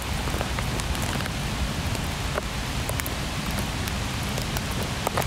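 Steady rain falling, with scattered small clicks of drops or nut shells.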